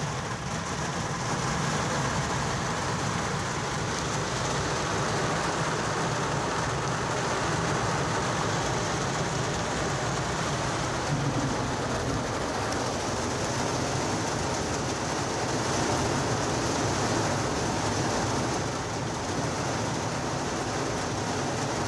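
Steady rain on a pickup truck's cab, heard from inside, an even hiss and patter that keeps up without a break.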